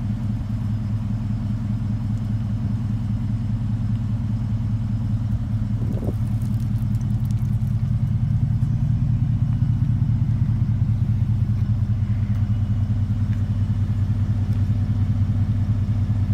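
Ford F-150 pickup running at a steady idle through an aftermarket MagnaFlow dual exhaust, getting slightly louder about halfway through.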